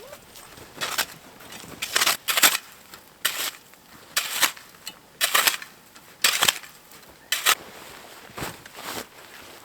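Snow being cleared by hand: about ten short crunching, scraping strokes in snow, roughly one a second at an uneven pace.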